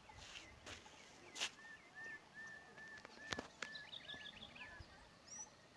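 Faint songbird calling outdoors: a run of about ten short, repeated notes, roughly three a second, with another bird's higher, quicker notes over them near the middle and a few soft clicks in between.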